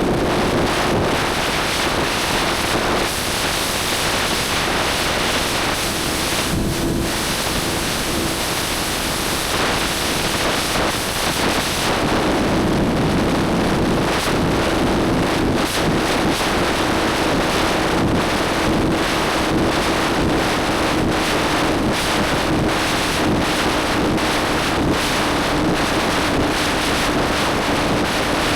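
Motorcycle riding at steady speed: heavy wind rush buffeting the microphone over a steady engine note.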